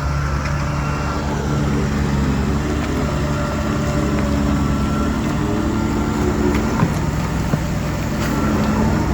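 DH17C3 Pro bulldozer's diesel engine running steadily under load, with two short sharp knocks about seven seconds in.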